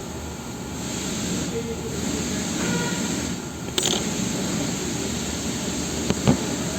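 Steady road and running noise inside a moving MG ZS 1.5, with a sharp click about four seconds in and two short knocks near the end.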